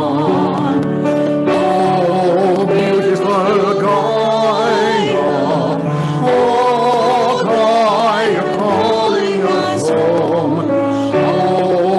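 Voices singing a hymn in parts over sustained instrumental accompaniment, with a wavering vibrato in the sung notes.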